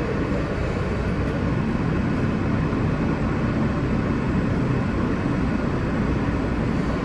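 R160B New York subway car running along the track at a steady pace, a continuous rumble heard from inside the car.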